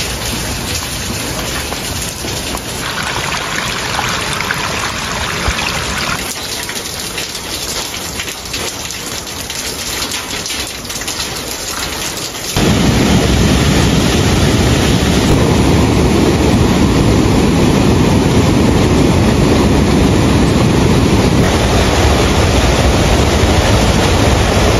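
Steady rain falling, with a dense spatter of drops on puddles. About halfway through it switches suddenly to the louder, deeper, steady rush of a rain-swollen stream in flood.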